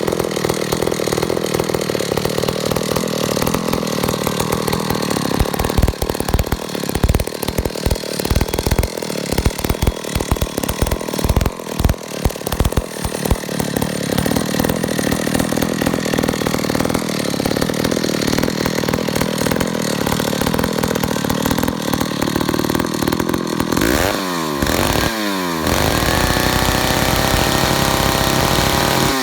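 McCulloch 1-43 chainsaw's 80cc two-stroke engine running after a carburettor rebuild: it runs unevenly at first, then evens out. Near the end it is revved up and down a few times quickly and then held at high speed.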